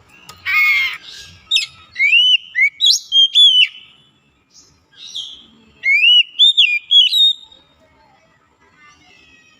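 Oriental magpie-robin singing: a short harsh rasping note, then a run of loud whistled notes that sweep up and down, a pause of about two seconds, and a second whistled phrase.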